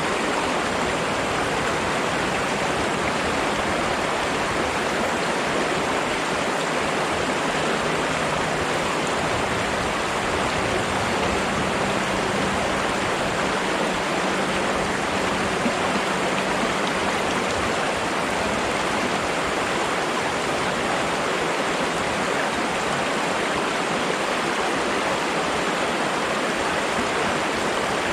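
Flowing water rushing steadily and without a break.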